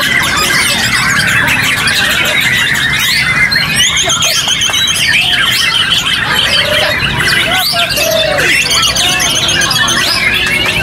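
Several white-rumped shamas (murai batu) singing at once in competition: dense, overlapping whistles, trills and rapid repeated notes, over a murmur of crowd voices.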